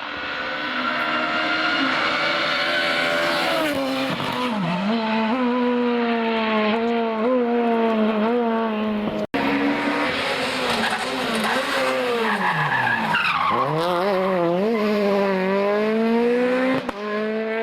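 Rally car engine at high revs on a special stage, its pitch climbing and dropping again and again through gear changes, with two deep falls in pitch as it slows hard. The sound cuts out for a moment about nine seconds in.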